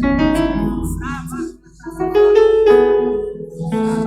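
Electric keyboard playing slow, held piano chords, with new chords struck every second or so.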